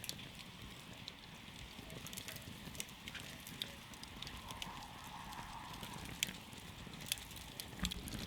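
Wood campfire burning with a steady low hiss, broken by irregular sharp crackles and pops.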